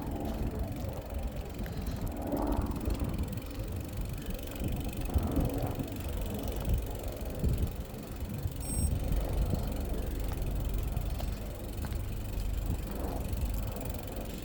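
Wind buffeting a phone's microphone: an uneven low rumble.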